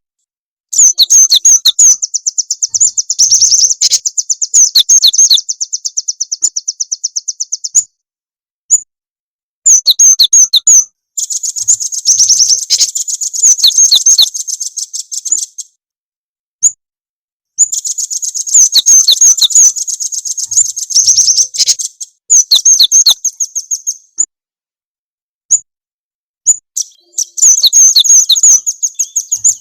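Lure recording of small songbird calls: rapid, high-pitched chirping trills in bursts several seconds long, with short pauses between them, four or five times over.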